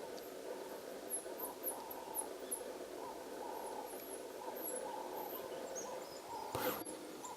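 Outdoor animal calls: a run of short, very high falling chirps a second or two in, over a steady lower chorus, with one brief rustle or knock near the end.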